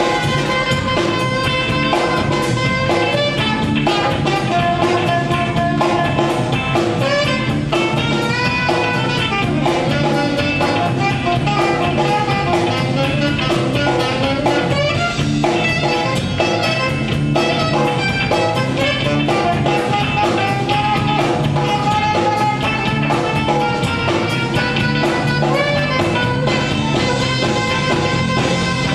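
Live band playing an instrumental passage with guitar, drum kit and brass at a steady beat.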